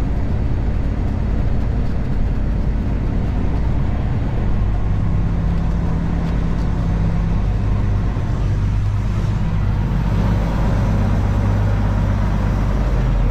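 Diesel engine of a Peterbilt semi truck running steadily at low speed, a deep even drone.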